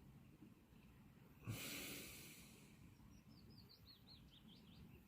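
Near silence, broken by a person's heavy breath about a second and a half in. Then a small songbird sings a quick run of about nine high, falling notes.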